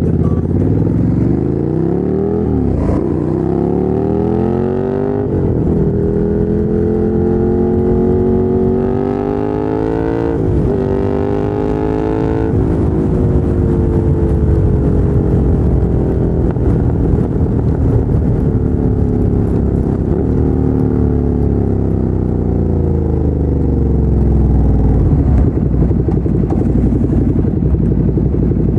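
Ducati Monster 797's air-cooled L-twin through a LeoVince LV-10 exhaust, pulling up through the gears with short breaks at each shift in the first half, then the engine speed falling away slowly as the bike rolls off.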